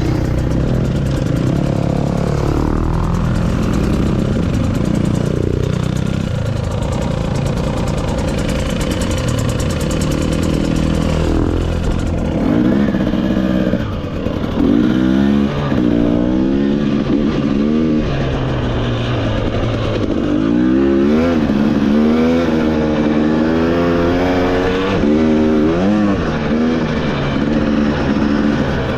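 Motorcycle engine running while ridden on a trail, the engine note rising and falling with the throttle. It is fairly even at first, then from about halfway through it revs up and drops back again and again.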